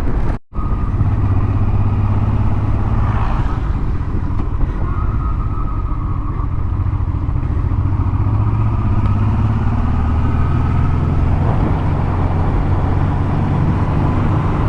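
Motorcycle engine running steadily while riding along. The sound drops out for a split second just after the start, then the engine runs on with little change.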